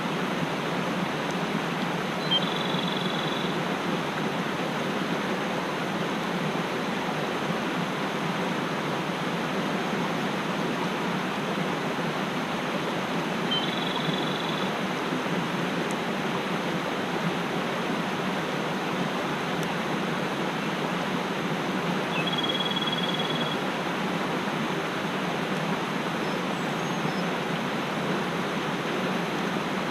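Mountain stream rushing steadily, with a bird giving a short high call three times, about ten seconds apart.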